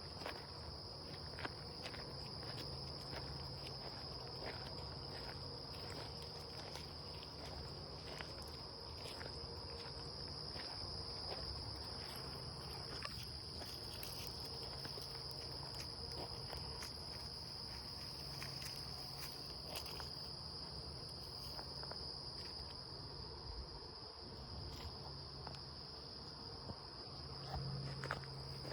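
A steady, high-pitched insect chorus of crickets, unbroken throughout, with footsteps crunching along a woodland trail.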